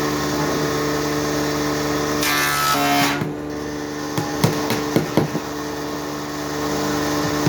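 Steady hum of a running power-tool motor in a carpentry workshop, with a quick run of several sharp knocks on wood about four to five seconds in.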